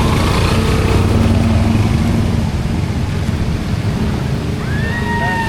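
A motor vehicle's engine running close by amid busy street noise, a steady low rumble. Near the end comes a short high sound that rises and falls.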